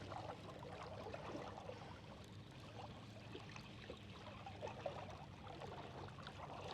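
Faint water sounds, light splashing and trickling, over the low steady hum of a boat motor running while trolling.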